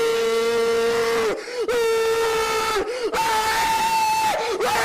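A voice wailing in long, held cries, about four in a row, each held steady for around a second with a short break and a pitch dip between. The last two are pitched higher than the first two.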